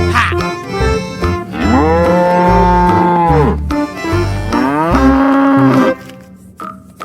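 A cow mooing twice, two long calls that rise and fall in pitch, over background music with a regular bass beat that fades out near the end.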